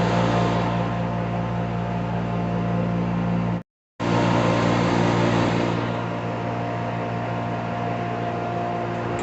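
Sandblasting cabinet at work on alternator housing parts: a steady hiss of the abrasive air blast over a constant machine hum. The sound drops out for a moment a little over a third of the way in, and the hiss eases about six seconds in.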